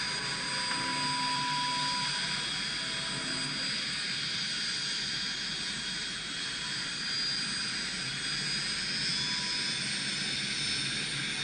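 Jet engine running steadily: an even rush with thin high whining tones held on top.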